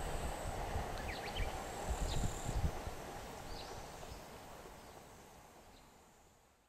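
Rumble of the 285-series Sunrise Izumo/Seto sleeper train dying away as it recedes into the distance, fading almost to nothing by the end. A few short bird chirps sound over it.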